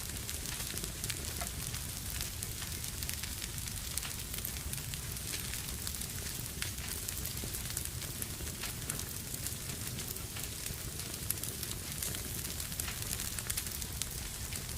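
Fire burning in a fireplace: a steady low rumble and hiss with frequent small, sharp crackles and pops.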